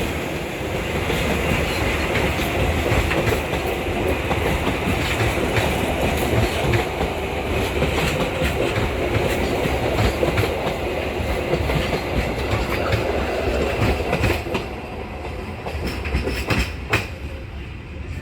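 Passenger train's carriages rolling past at close range, steel wheels clacking over the rail joints; the rumble eases off over the last few seconds, with a few sharp clicks near the end.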